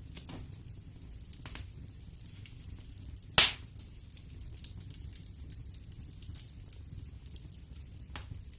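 Wood fire crackling in a fireplace: scattered small snaps over a low steady rumble, with one loud sharp pop about three and a half seconds in.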